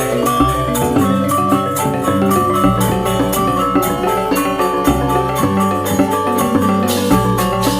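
Balinese gamelan music: bronze metallophones ringing in fast, dense patterns over a steady quick beat, with deep bass notes changing about every two seconds.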